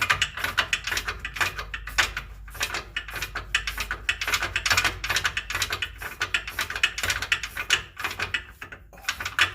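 Hand ratchet wrench clicking rapidly in long runs with brief pauses, turning the bolt of a torsion bar unloading tool or adjuster on a GM truck's front suspension.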